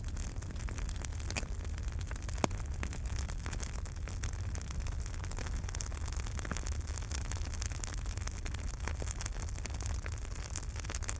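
Wood fire burning in a fireplace: a steady low rumble with scattered crackles and pops, one sharper pop about two seconds in.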